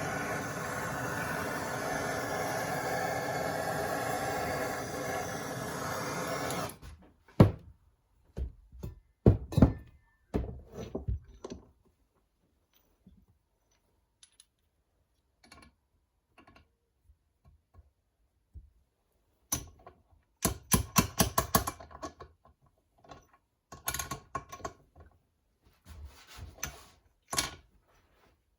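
A steady mechanical noise stops abruptly about a quarter of the way in. It is followed by scattered knocks, taps and clatters of engine parts being handled and tapped into place on a workbench, in irregular clusters with short quiet gaps.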